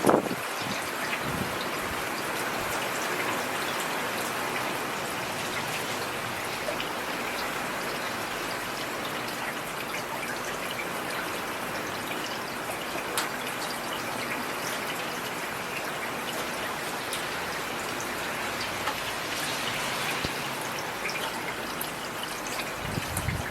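Heavy rain falling steadily, an even hiss with scattered individual drops ticking. A low rumble comes in just before the end.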